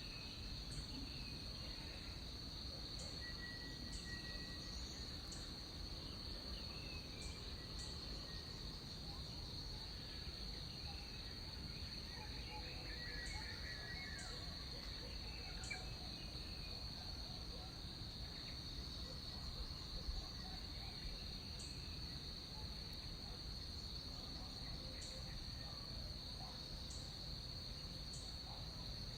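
Tropical rainforest insects droning steadily at one high pitch, with short high chirps every second or two, faint bird calls and a low background rumble.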